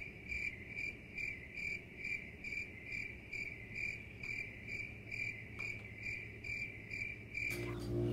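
Insect chirping, an even train of short high chirps at about two a second, cutting off suddenly near the end as music begins.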